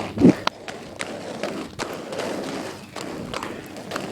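Irregular clicks, taps and thumps of someone stepping and scrambling along on roller skates, with a short vocal sound just after the start.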